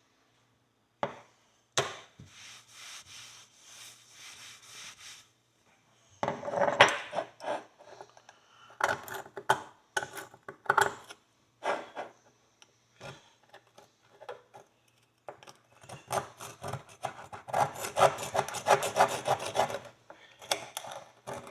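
A hand tool scraping packed dirt out of an old horseshoe as it is cleaned: short bursts of quick scraping strokes with pauses between, and a long run of rapid strokes near the end.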